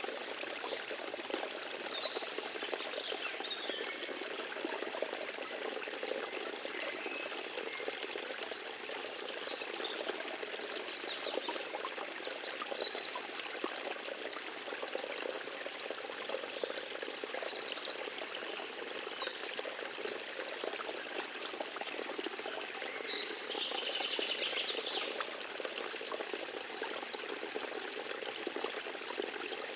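A small forest stream trickling and splashing steadily, with faint high chirps now and then, a cluster of them about three-quarters of the way through.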